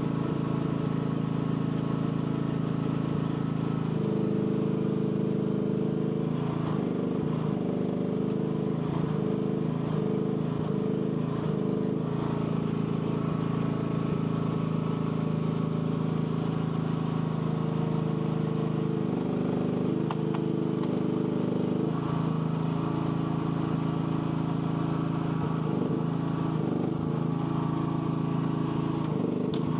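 AGT L12 mini excavator's engine running steadily, its note shifting under load a few times as the hydraulics work.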